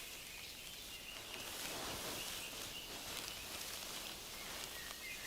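Faint forest ambience: a soft, steady outdoor hiss with no distinct calls standing out.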